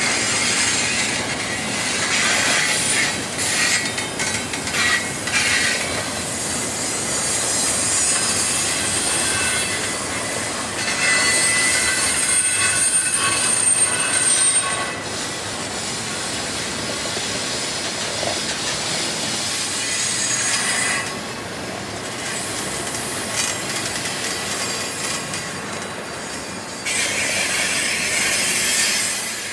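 A double-stack intermodal container train rolling past at close range, its cars clattering over the rails. High-pitched steel wheel squeal comes and goes and is loudest about halfway through.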